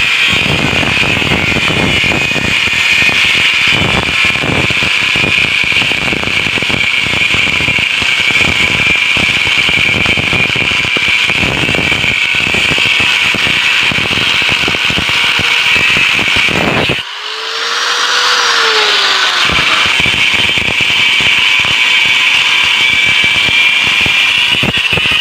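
Angle grinder cutting through the steel shell of a refrigerator compressor, a continuous loud high-pitched grinding. About two-thirds of the way through the cutting stops for a couple of seconds while the grinder's tone rises and falls, then the cutting starts again.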